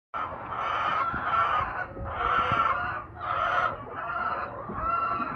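A flock of laying hens clucking and squawking together, their calls overlapping in waves about once a second.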